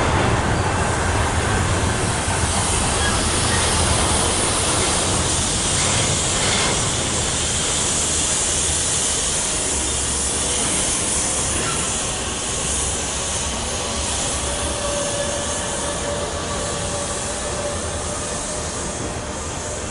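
Train rolling past on the rails: a steady rumble and hiss of wheels on track that slowly eases off.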